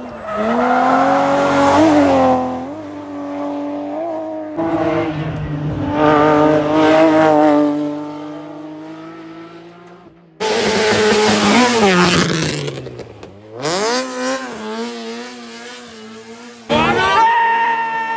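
Rally car engines at full throttle, pitch climbing and dropping through gear changes and lifts. These are several separate passes, each starting abruptly.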